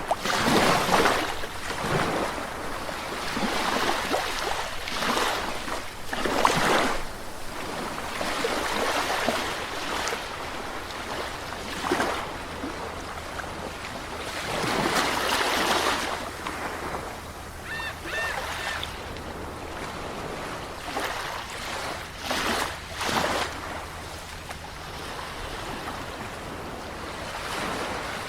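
Sea waves breaking and washing in, a rushing hiss that swells and falls every few seconds, over a steady low rumble.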